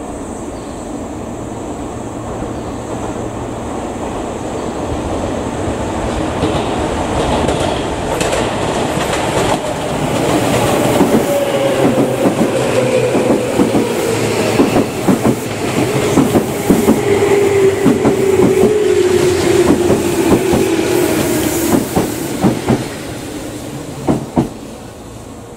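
Tobu 10050-series electric commuter train passing over the station tracks. Its wheels clack rhythmically over rail joints and a whine slowly falls in pitch. The sound grows louder to a peak in the middle and fades near the end.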